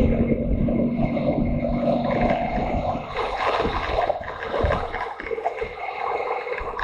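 Motorcycle engine running under way, with heavy wind rumble on the microphone. The steady engine note drops away about two and a half seconds in, leaving mostly the wind noise.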